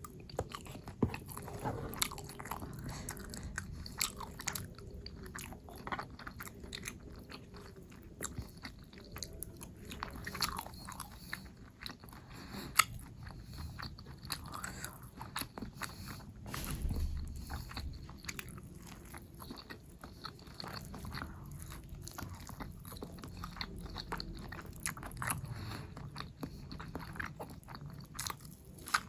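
A person chewing and biting food close to the microphone, mukbang-style: many irregular sharp clicks and mouth smacks, with one louder snap about halfway through.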